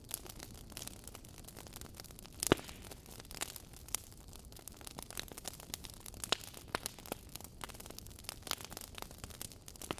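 Wood fire crackling in a fireplace: irregular sharp pops and snaps over a soft steady hiss, with the loudest pop about two and a half seconds in.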